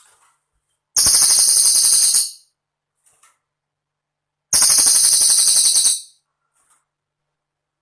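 Cililin bird singing a rapid, high-pitched trill. The phrase comes twice, each lasting about a second and a half, with silent gaps between.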